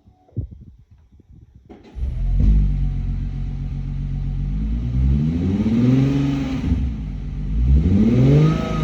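Infiniti Q50S Hybrid's 3.5-litre V6 exhaust: after a click, the engine starts about two seconds in, idles, then is revved twice, the pitch rising and falling each time.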